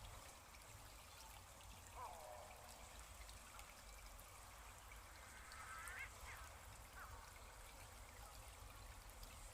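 Near silence: faint outdoor ambience with a few faint bird-like chirps, one about two seconds in, a short cluster around six seconds and another a second later.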